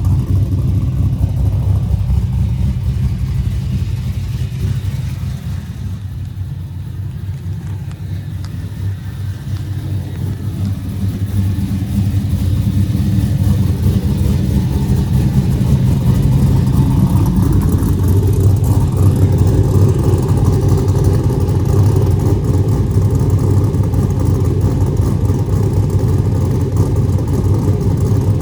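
Cammed LS1 V8 of a 2002 Trans Am WS6, with a Brian Tooley stage 3 camshaft, long-tube headers and 3-inch true dual exhaust with X-pipe, running with a deep steady exhaust note. It eases off for a few seconds, then grows louder about twelve seconds in and holds there.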